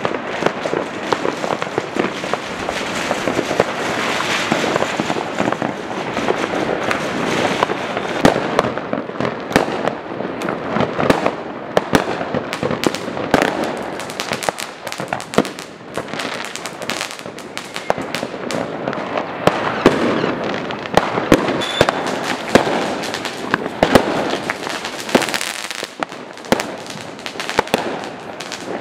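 New Year's fireworks and firecrackers going off all around without a break: dense, overlapping bangs and crackles, with a few sharp loud bangs standing out.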